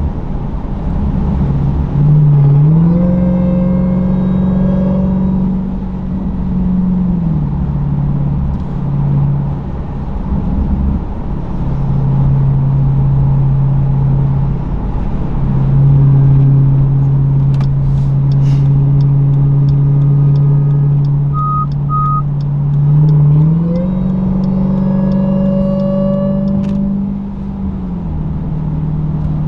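Supercharged V8 of a 2023 Dodge Durango SRT Hellcat with its mufflers cut off, cruising and revving up twice: about two seconds in and again near the end. Each time a high supercharger whine rises with the revs, holds for a few seconds, then the engine drops back. Two short beeps sound a little before the second rev.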